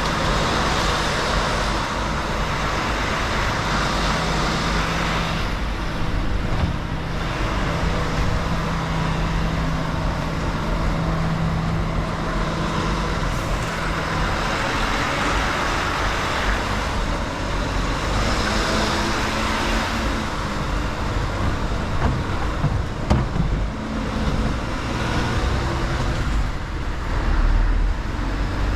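Mercedes-Benz Actros L truck's diesel engine running steadily while the truck drives, with a noise of tyres and the road that swells and fades every few seconds.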